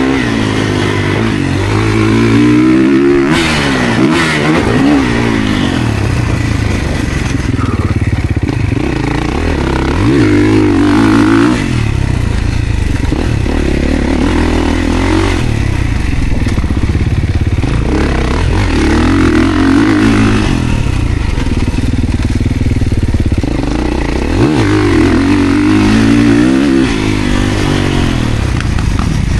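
Motocross bike ridden hard around a dirt track, its motor repeatedly rising and falling in pitch as it accelerates and backs off.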